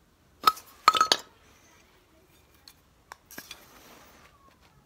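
Hard metal objects clinking: one sharp clink about half a second in, a quick run of three around a second in, then a few fainter knocks.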